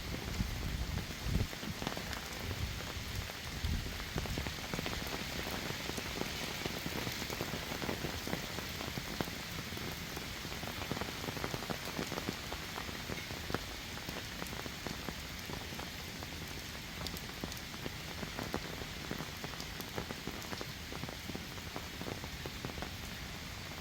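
Heavy rain falling steadily, a dense patter of drops hitting surfaces, with a few low bumps in the first few seconds.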